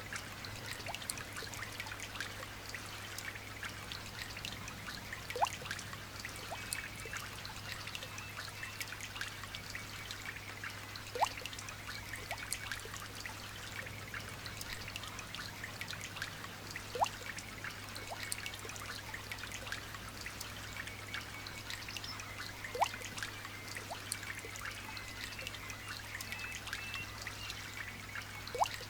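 Light rain dripping and trickling, a constant patter of small drops, with a louder drop plinking into water about every six seconds. Faint birds chirp under the rain.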